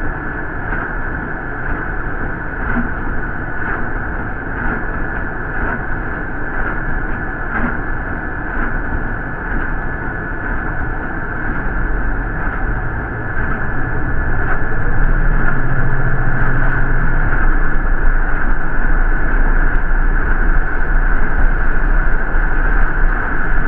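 City bus ride noise heard from on board: a steady rumble with a constant high whine and light rattling. The rumble grows louder about halfway through.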